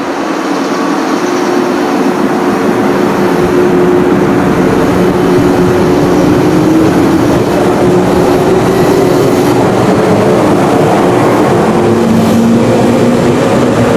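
A three-car JR 413 series electric multiple unit pulling out of the station and accelerating: a steady hum from the traction motors, its pitch creeping slowly upward, over the rumble of wheels on the rails. It grows louder over the first few seconds, then holds.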